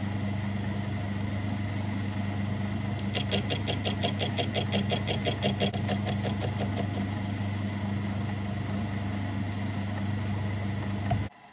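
South Bend lathe running with a steady motor hum while it cuts a screwdriver slot into a tiny screw head, taking a 5-thousandths cut; a quick, even run of ticks from the cutter on the work starts about three seconds in and fades out a few seconds later. The machine shuts off abruptly near the end.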